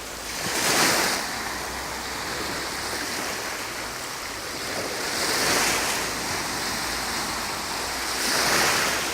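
Small sea waves washing onto the shore: a steady hiss of surf that swells three times, each wave rising and fading over about a second, roughly every three to four seconds.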